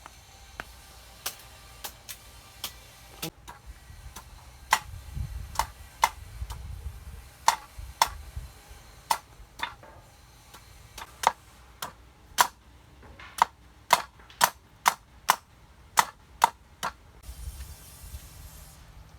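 A series of sharp knocks of hard objects striking, uneven in spacing, about one or two a second, coming faster in the second half.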